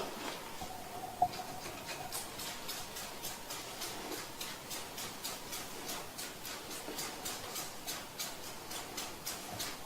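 Hand trigger spray bottle of neutral air-conditioner cleaner squeezed over and over, giving short hissing sprays about three times a second onto an air-conditioner evaporator.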